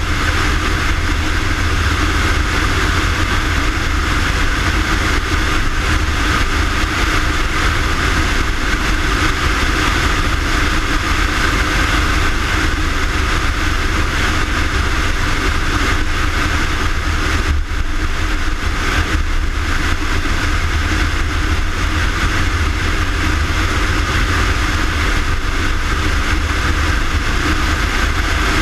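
Fire rescue engine's engine and road noise: a loud, steady drone with a deep rumble, briefly dipping about seventeen seconds in.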